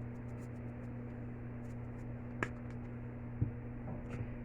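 Steady low hum in a quiet kitchen, with one sharp click about two and a half seconds in and a softer knock about a second later, small handling sounds while chicken wings are being seasoned.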